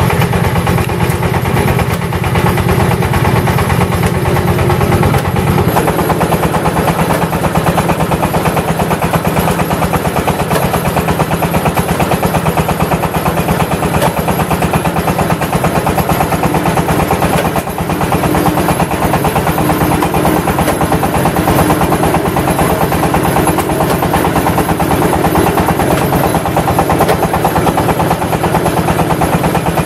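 Engine of a clay brick press machine running steadily with an even, rapid pulsing. Its lower tone changes about six seconds in.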